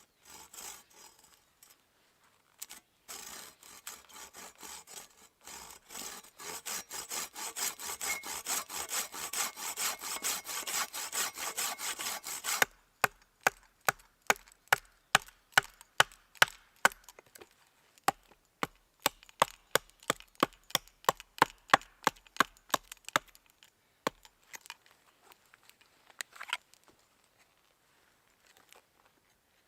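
A hand saw cutting through a wooden stick in rasping strokes that grow louder, stopping suddenly about halfway through. Then a run of sharp wooden knocks, about three a second, lasting about ten seconds.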